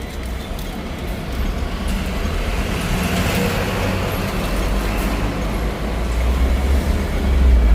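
Hong Kong double-decker tram running along street tracks: a steady low rumble that grows louder near the end.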